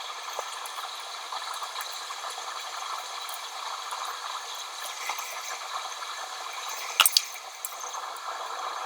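Small clicks and clinks of tools or parts being handled at a repair bench over a steady hiss, with a sharp click about seven seconds in.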